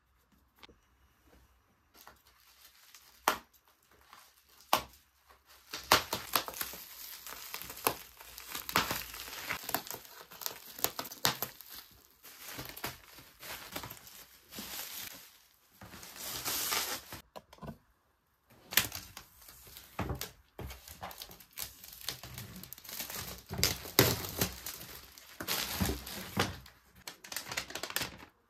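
Crinkly material being handled and rustled, with a few sharp clicks and taps at first, then longer stretches of dense crinkling broken by a short pause.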